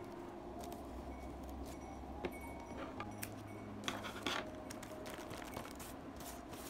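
Light rustling and a few sharp clicks and taps from hands tying jute twine around a paper-wrapped gift, the loudest clicks about four seconds in, over a steady low hum.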